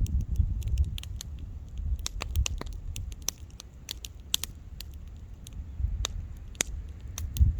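Wood bonfire crackling: irregular sharp pops and snaps, several a second in quick clusters, over a steady low rumble.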